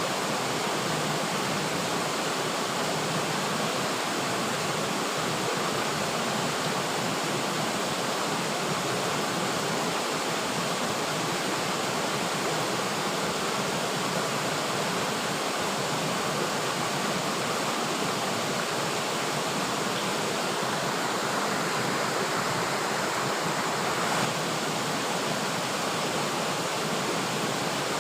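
River water flowing steadily, a continuous rushing hiss with no breaks.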